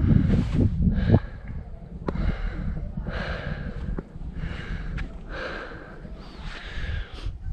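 A hiker breathing hard, one audible breath about every second, with low rumble on the microphone and a few sharp clicks of steps.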